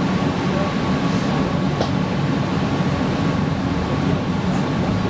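Passenger-cabin noise inside a PESA Fokstrot tram: a steady low hum with a faint steady whine above it, and one brief click about two seconds in.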